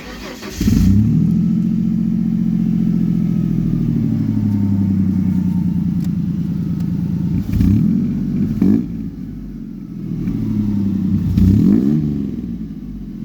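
Car engine starting for the first time through newly fitted side exhaust pipes: it fires within a second and runs at a fast idle that settles lower over the next few seconds. In the second half it is revved and let fall back several times.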